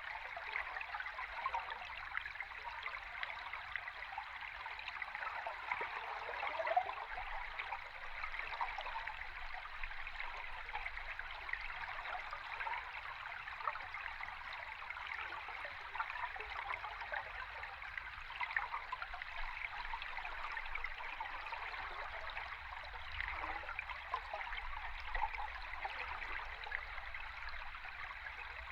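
River stream heard underwater: steady rushing water with many small gurgles, over a faint low rumble.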